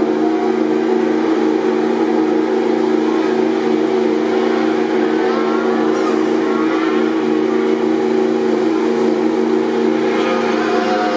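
MotoGP racing motorcycle engine idling at a steady pitch.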